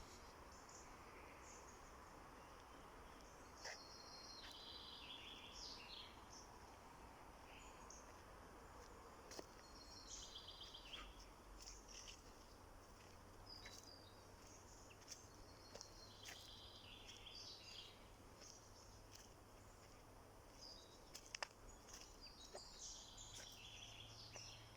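Faint birdsong: short high phrases that step down in pitch, repeated every few seconds over a steady low background hum, with a few sharp clicks.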